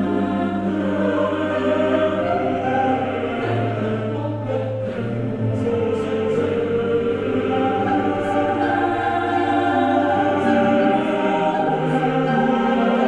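Background music: a choir singing slow, sustained chords over a low held bass note, which drops away near the end.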